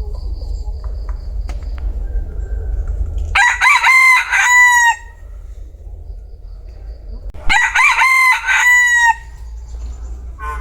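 Vietnamese bantam (gà tre) rooster crowing twice, each crow about a second and a half long: a few quick notes and then a held final note. A steady low rumble runs underneath.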